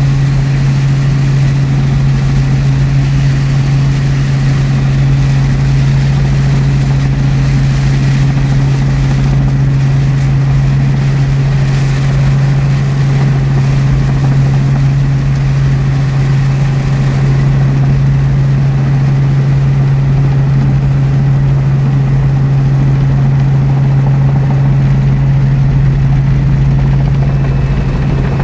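Helicopter engine and rotor noise heard from inside the cabin in flight: a loud, steady drone with a strong constant hum. The higher hiss over it dies down about two-thirds of the way through.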